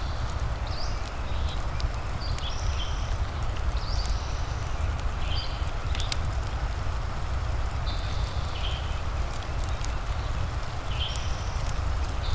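Fireplace ambience: a wood fire crackling in scattered sharp pops over a steady hiss of rain and a low rumble. A bird gives short high calls every second or two throughout.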